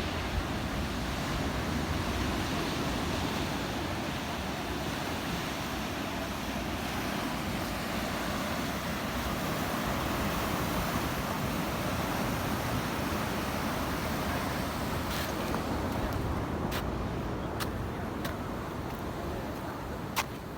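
Steady wash of ocean surf mixed with wind on the microphone. A few short clicks come in the last few seconds.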